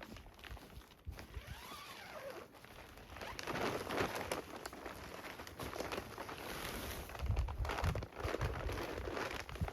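Rustling and crinkling of tarps and gear being handled, with a few soft low thumps near the end.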